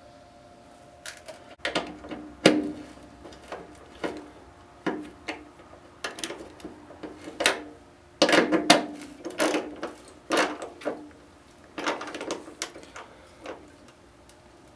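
Hand tools working a small metal flange bolt into a snow blower's housing: irregular metallic clicks, clinks and short scrapes as the bolt is fitted and tightened, busiest about eight seconds in and again near twelve seconds.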